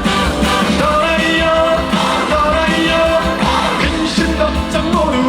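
Live band playing an upbeat twist-style trot song between the sung lines.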